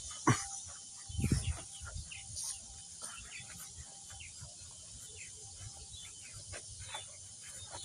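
Outdoor ambience of a steady high insect trill with many short bird chirps scattered through it. A few low bumps come in the first two seconds.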